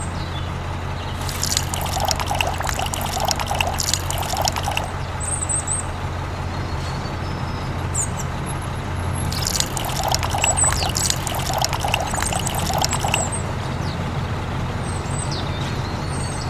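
Liquid pouring and trickling in two spells of a few seconds each, over a steady low hum.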